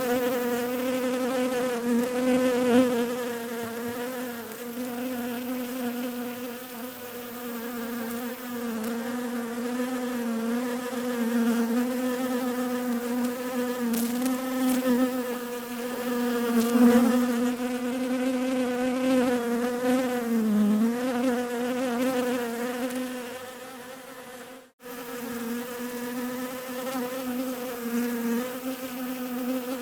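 Bees buzzing in a steady drone whose pitch wavers slightly and dips briefly about two-thirds of the way through. The sound cuts out for an instant about 25 seconds in, then resumes.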